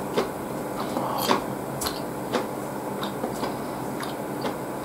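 Close-up chewing of ramen noodles: irregular wet mouth clicks and smacks, about two or three a second, over a steady low hum.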